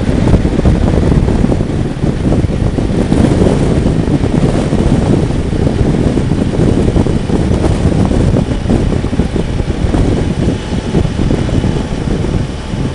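Motorcycle riding at road speed: a steady wind rush buffeting the microphone, with engine and road noise underneath.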